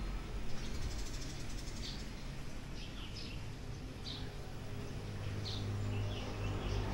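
Small birds chirping: short high calls every second or so, over a faint low steady hum.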